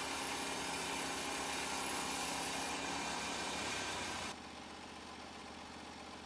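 Norwood portable band sawmill running steadily, its engine and blade giving an even mechanical drone. The sound drops suddenly to a quieter level about four seconds in.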